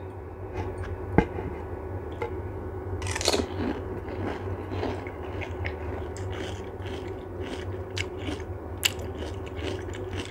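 A person biting into and chewing crisp panipuri (golgappa) shells close to the microphone: crunches, small crackles and clicks, with a sharp knock about a second in, over a steady low hum.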